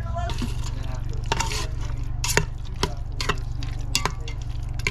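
Food being stirred in an Instant Pot on the sauté setting: a stir stick scrapes and knocks against the pot in about a dozen irregular clicks, over a faint sizzle. A steady low hum runs underneath.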